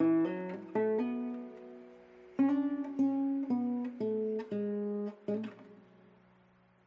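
Background music: acoustic guitar picking single notes and chords that ring and die away, trailing off near the end.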